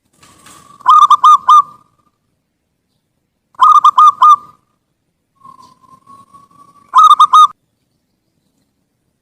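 Zebra dove (perkutut) cooing: three phrases of four or five quick, rippling coos, each opened by a softer drawn note. A longer, slowly rising note leads into the third phrase.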